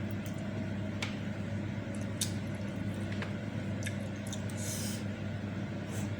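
Close-miked wet eating sounds of someone eating bakso and noodles: squishy chewing with a few sharp little clicks and a short hissing intake of breath near the end, over a steady low hum.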